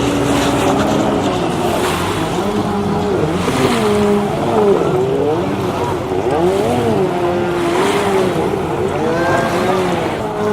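Jet ski engine running, its pitch rising and falling again and again as the throttle is worked, over a wash of water noise.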